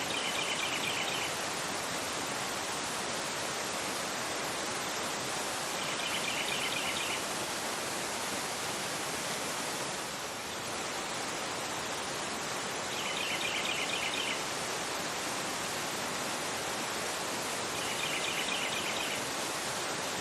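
Fast-flowing river rushing over a rocky bed, a steady even roar of water. A bird chirps a short rapid run of high notes four times, about every five to six seconds.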